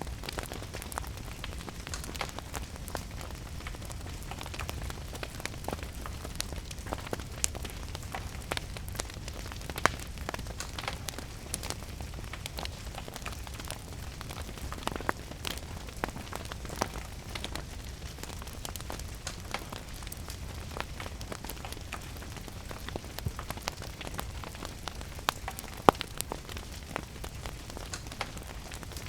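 Wood fire crackling and popping with irregular sharp snaps over a steady rain hiss and a low rumble, with one louder pop near the end.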